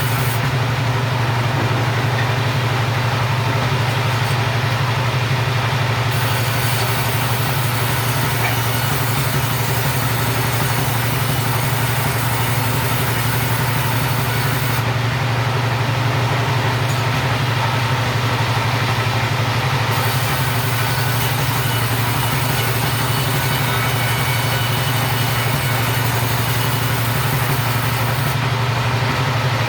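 Two-stroke chainsaw running steadily at an even pitch with no let-up.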